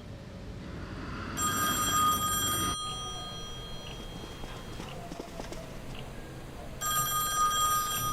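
An electronic ringing tone, sounding twice about five seconds apart, each ring lasting a little over a second, like a telephone ringing.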